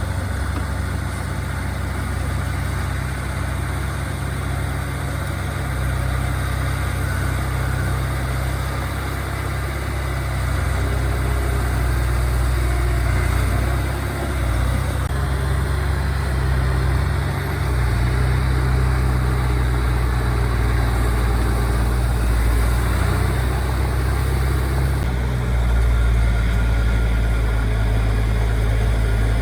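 Diesel engine of earthmoving machinery running steadily, a deep rumble that gets louder near the end.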